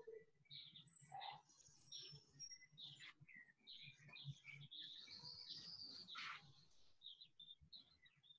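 Faint birdsong: many short high chirps and whistles, with one longer rising-and-falling whistle about five seconds in.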